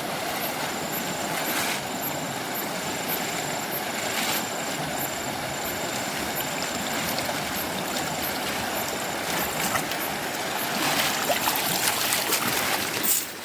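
River water rushing steadily, swelling louder near the end. A faint high-pitched pulsing note sounds above it for the first part.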